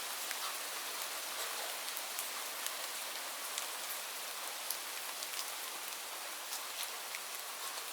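Steady rainfall: an even hiss with scattered sharp drips of individual drops landing close by.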